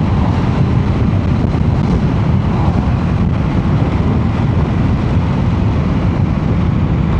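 Steady rush of wind and road noise from a motorcycle riding at speed, with wind buffeting the microphone.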